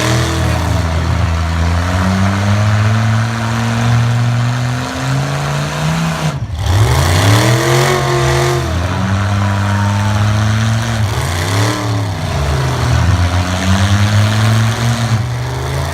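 Big lifted-truck engines revving hard under load, their pitch repeatedly climbing and falling over a steady rush of noise, with a brief break about six and a half seconds in.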